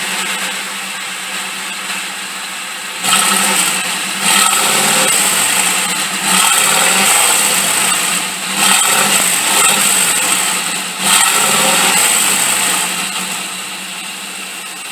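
1995 Chevrolet pickup engine idling through its freshly rewelded single exhaust, revved about five times in quick blips that rise and fall back to idle. The exhaust was rewelded to cure bad leaks.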